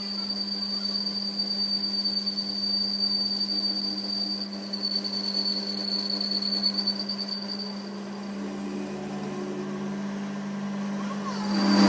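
A workshop machine running steadily: a constant low hum with a thin high whine over it that fades out about two-thirds of the way through.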